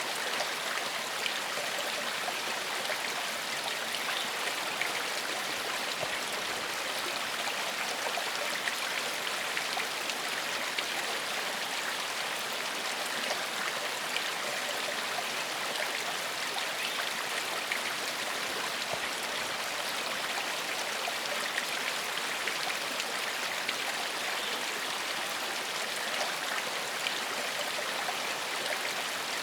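Gentle forest stream flowing steadily over stones, a constant rushing babble with fine splashing detail.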